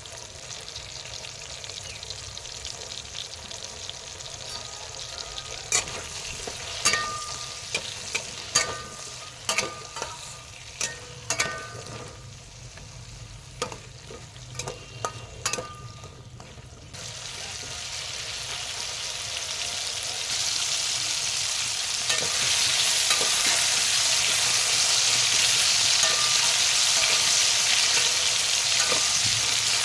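Food frying in oil in a pan with a utensil stirring it. In the first half, a dozen sharp, ringing knocks of the utensil against the pan sound over a low sizzle. From just past halfway, the sizzle rises and settles into a loud, steady hiss.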